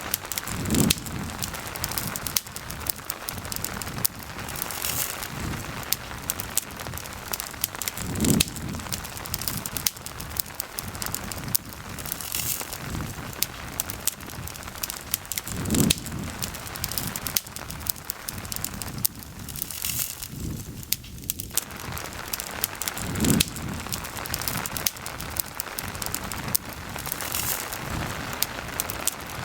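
Steady rain with a campfire crackling and popping through it. A low dull thump comes about every seven and a half seconds, five times.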